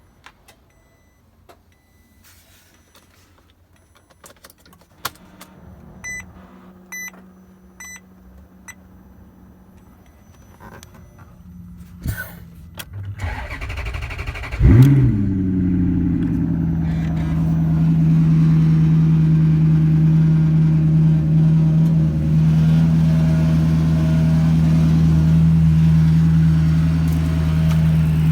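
Clicks and a few evenly spaced chimes as the ignition is switched on, then the 2006 Maserati's V8 cranks and starts about halfway through with a short rev flare. It settles into a loud, steady idle.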